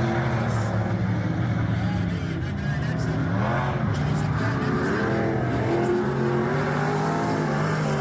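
Several dirt-track race car engines running together, their pitch rising and falling as they work around the track.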